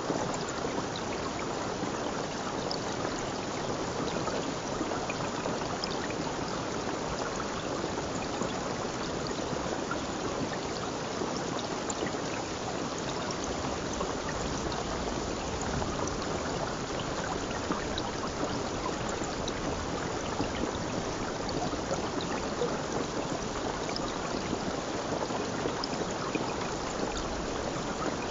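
Running water flowing steadily, an even rush that does not change.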